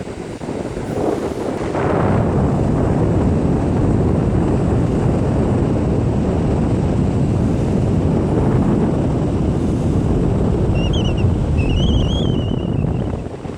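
Strong wind buffeting the microphone, a loud low rumble that builds about two seconds in and eases off near the end, with surf likely blended in. A bird gives two short calls near the end.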